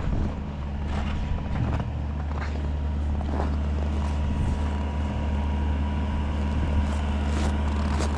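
Skid steer's engine running steadily under load while it pushes snow, with a thin steady whine joining about halfway through and a few faint knocks.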